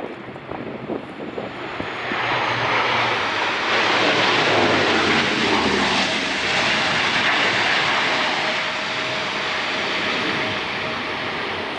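Airliner's engines passing close: the noise swells over the first couple of seconds, peaks, then slowly fades, with a thin steady whine coming in partway through. Wind gusts buffet the microphone at the start.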